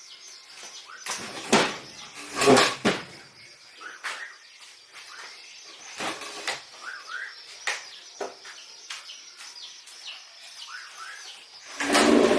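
Small birds chirping in short rising calls over a steady background hiss, with a few sharp knocks in the first three seconds. A loud, sustained pitched sound starts near the end.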